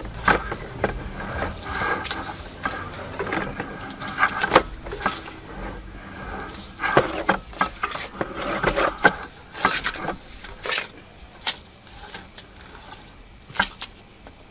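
Sewer inspection camera push cable being pulled back out of the line, with irregular clicking and rattling.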